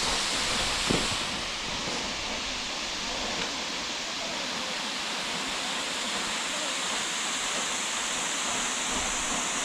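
Steady rushing noise of a waterfall's flowing water in winter, with a single short knock about a second in.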